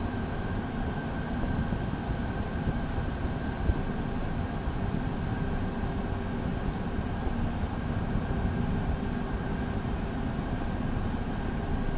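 Cockpit noise of a Beechcraft Premier I business jet with its twin Williams FJ44 turbofan engines running on the ground: a steady low noise with a thin, steady high whine on top.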